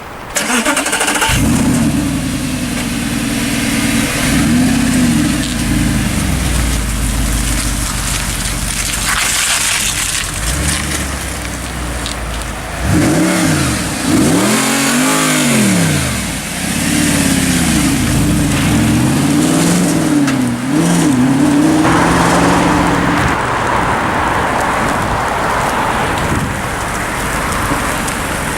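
A sports car's engine revved over and over, its pitch sweeping up and falling back, with a few big revs in the middle and quicker blips after them, then running more steadily near the end.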